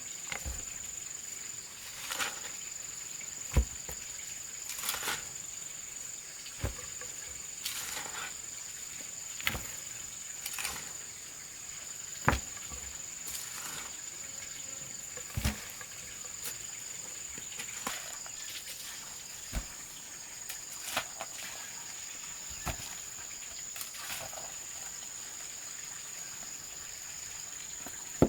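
Steady high-pitched insect drone, with irregular sharp knocks and taps every second or two.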